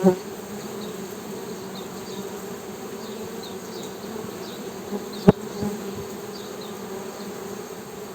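Honeybees humming in a steady buzz, with a sharp click about five seconds in.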